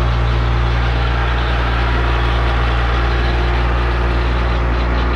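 Diesel engine of a large John Deere rubber-tired wheel loader running steadily as the loader rolls in reverse.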